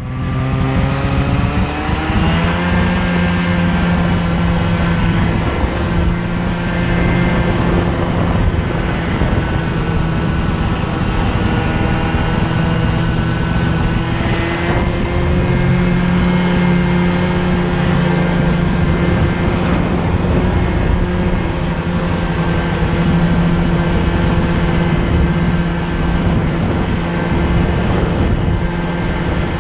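Snowmobile engine revving up as it pulls away, then running steadily at speed, with a second rise in pitch about halfway through.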